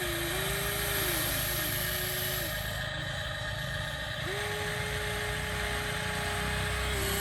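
Electric motor whine of a remote-control construction toy, starting and stopping several times: each run glides up in pitch, holds, then falls away, with the longest run in the second half. A steady low hum lies underneath.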